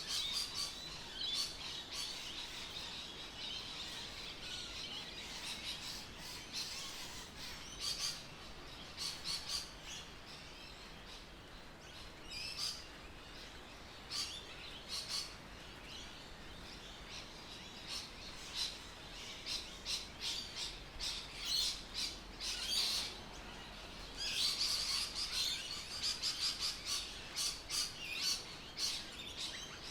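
Birds chirping and calling: short, high calls come thick and fast, busiest at the start and again near the end, over a faint outdoor hiss.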